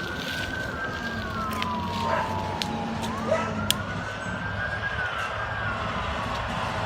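Emergency vehicle sirens sounding a slow wail: the pitch rises, holds, then falls, about twice, with two wailing tones running slightly out of step, over a steady engine rumble.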